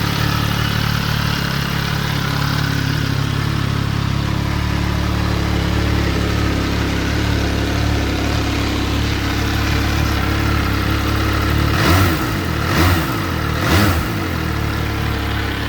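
MV Agusta Turismo Veloce Lusso's 798 cc three-cylinder engine idling steadily, then blipped three times near the end, the revs jumping up and dropping straight back to idle each time.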